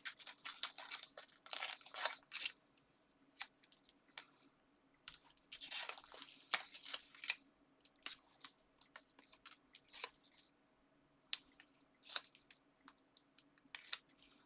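Paper and card being handled, with foam adhesive pads peeled from their backing: irregular short rustles, crinkles and small clicks with quiet gaps between them.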